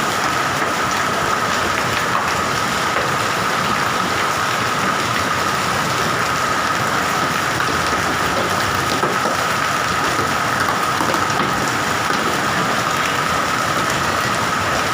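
Hail and rain falling steadily and densely, with a thin steady high tone running underneath.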